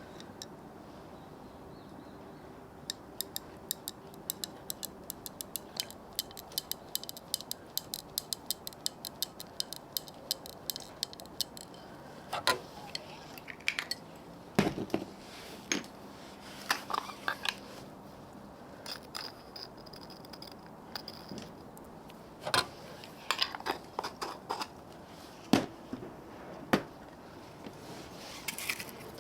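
Utensils and dishes clinking during a meal: a run of quick, even ticks, about three or four a second, for several seconds, then scattered louder clacks and knocks.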